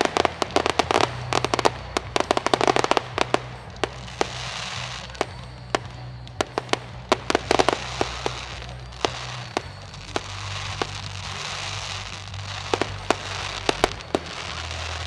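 Fireworks display: rapid volleys of sharp shell bursts and bangs, dense in the first few seconds and again about halfway through and near the end, with stretches of fizzing crackle between them.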